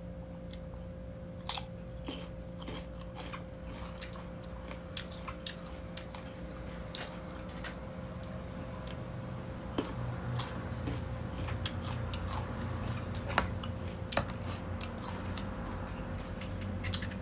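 Person biting and chewing crisp mango: a string of irregular sharp crunches over a faint steady hum.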